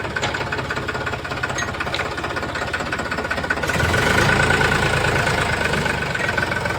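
Farmtrac tractor's diesel engine running, growing louder and heavier a little past halfway through.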